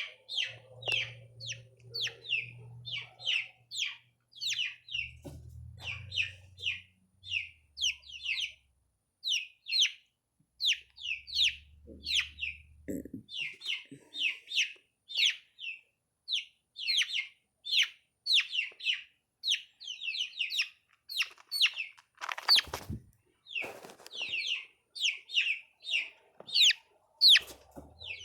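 Young chickens peeping steadily: short, high, falling chirps, about two or three a second. Two brief thuds come a little past two-thirds of the way through.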